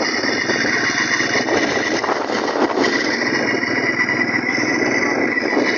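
Small engine fitted to a bicycle running steadily with rapid firing pulses, a steady high whine alongside it.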